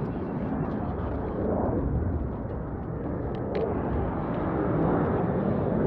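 Jet engines of Blue Angels F/A-18 Super Hornets making a steady rumble overhead. It swells a little and eases off.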